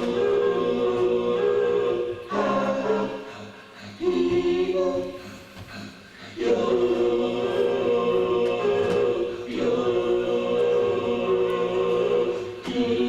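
Choir singing held chords in phrases of a few seconds each, with brief breaths between phrases.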